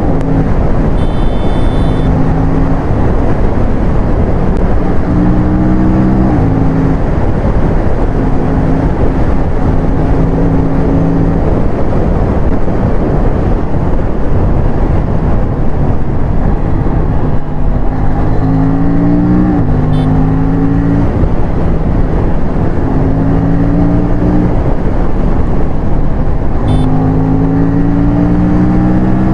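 Aprilia RS457's parallel-twin engine running at speed, heard from on the bike with loud wind rush on the microphone. The engine note holds steady in stretches and steps up in pitch several times.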